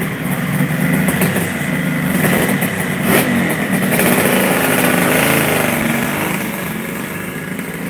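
Old Kawasaki motorcycle engine running at idle, with a click about three seconds in, then revving as the bike pulls away about four seconds in and fading as it rides off.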